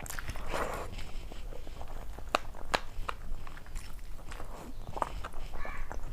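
Close-up eating sounds: chewing and crunching of crisp food, with a few sharp cracks among softer crackly bites.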